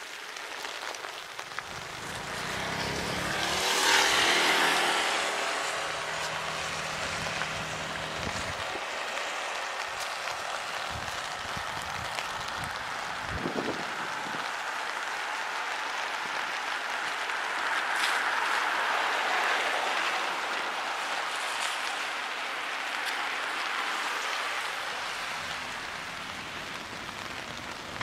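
A train moving slowly through a rail depot: a hum with several steady tones for the first several seconds, loudest about four seconds in, over a steady hiss, with one low thud around the middle.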